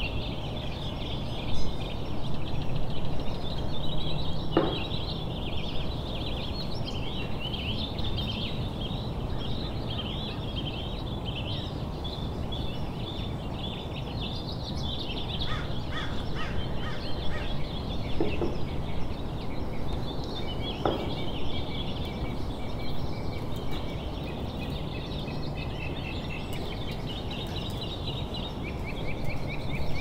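Birds chirping and twittering in a steady, busy chorus over a low background hum. There are a couple of short light knocks, one a few seconds in and one about two-thirds of the way through.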